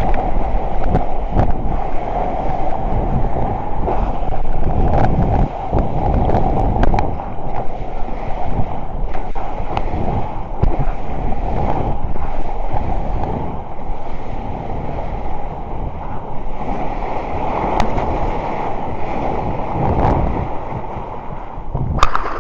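Ocean surf rushing, with wind buffeting the microphone in irregular gusts. A sharp knock sounds just before the end.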